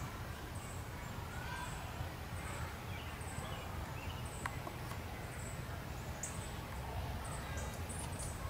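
Small birds chirping faintly: short high chirps repeated every half second to a second, with a few softer sliding calls about two to three seconds in, over a steady low outdoor rumble.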